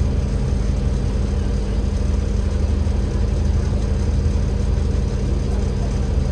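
Cummins L9E diesel engine of an Enviro500 MMC double-decker bus running steadily at an even speed, a constant low drone with no revving.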